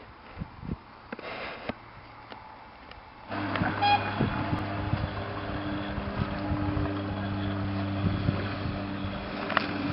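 Faint clicks over a low hum, then, about a third of the way in, a locomotive's steady low-pitched drone starts abruptly and carries on, with a few brief higher tones soon after it starts.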